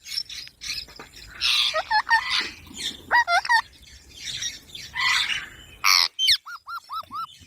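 Baby green parrot calling: harsh squawks mixed with short whistled chirps that swoop up and down, ending in a quick run of five rising-and-falling chirps.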